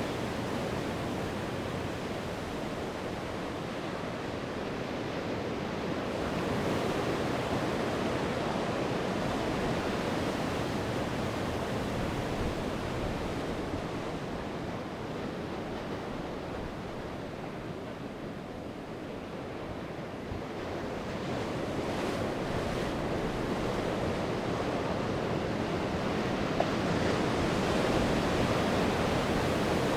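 Sea waves breaking and washing on the shore, a steady rush that swells and ebbs slowly, with some wind on the microphone.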